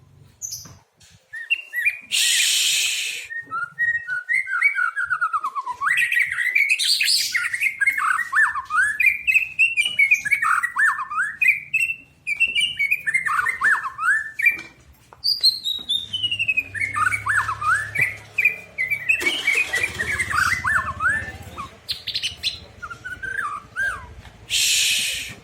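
White-rumped shama singing a long, varied song of quick whistled notes sweeping up and down, with short breaks between phrases. Two short bursts of hiss come about two seconds in and near the end.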